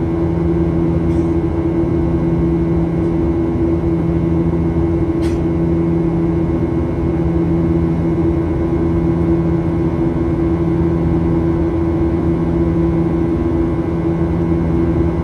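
Boeing 737-800 cabin noise in flight: a steady rumble of engine and airflow noise with a constant low hum. Two faint clicks, about one second and about five seconds in.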